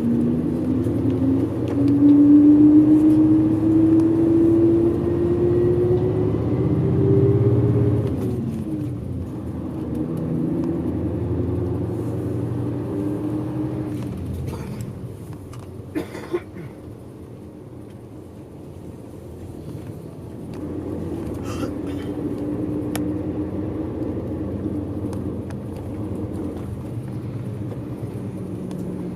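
Bus engine heard from inside the cabin, pulling up through the revs with a steadily rising pitch, dropping back about eight seconds in and climbing again. It eases off for a few seconds in the middle, where there are a couple of short knocks, then runs steadily again.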